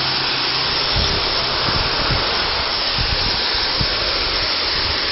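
Small waterfall splashing onto rocks: a steady, even rush of falling water.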